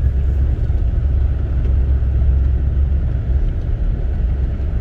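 Low, steady rumble of a vehicle being driven, mixed with wind noise.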